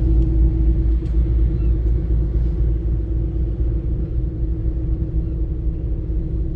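Car ferry's engines and machinery droning: a steady low rumble with a constant mid-pitched hum over it.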